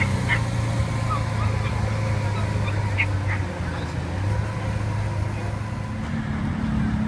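A steady low engine hum, dipping briefly about halfway through, with a few short high chirps over it near the start and about three seconds in.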